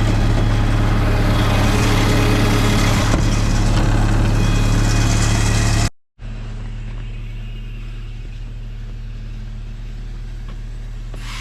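Engine of an engine-driven air compressor running steadily with a low drone. About six seconds in, the sound cuts out for a moment and comes back quieter, still a steady engine drone.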